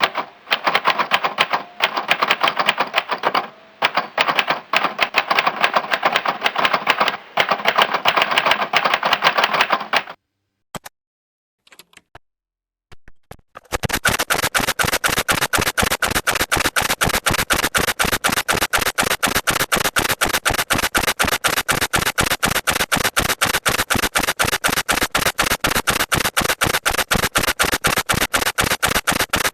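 Typewriter keys typing: about ten seconds of fast, uneven keystrokes with brief pauses, a short near-silent break with a few single strokes, then a long run of rapid, evenly spaced strikes.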